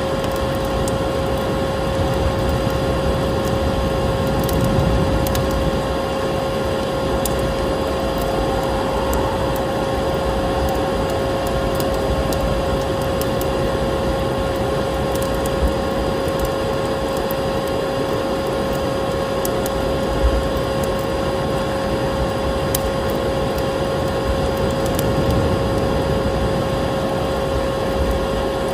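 Vacuum cleaner running steadily with a constant whine over its rushing noise, mixed with a wood fire crackling and popping in scattered clicks.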